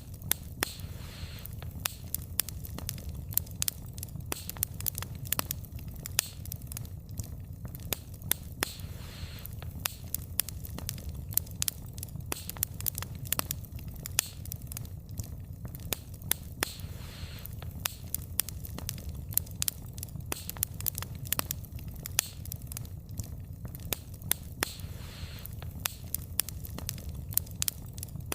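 Wood fire burning, with a steady low rumble of flames and frequent sharp crackles and pops from the burning logs at irregular intervals.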